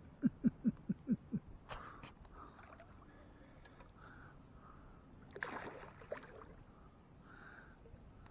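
Water sloshing and splashing against a kayak, with a louder splashy burst about five and a half seconds in. Near the start there is a quick run of about six short pitched pulses, the loudest sound.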